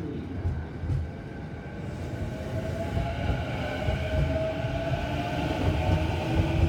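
Electric train running past and growing steadily louder, a low rumble under a steady motor whine that drifts slightly in pitch.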